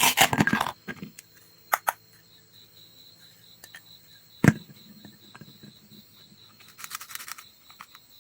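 Toy food being cut with a toy knife: a short rasping tear at the start, a few light clicks, then a single sharp knock about four and a half seconds in and a brief crackle near the end.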